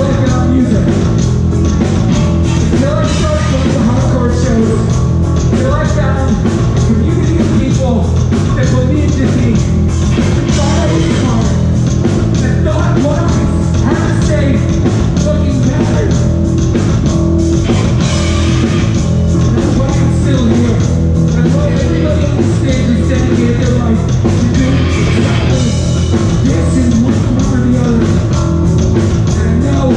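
Hardcore punk band playing live at a fast tempo: distorted guitars, bass and pounding drums with shouted vocals.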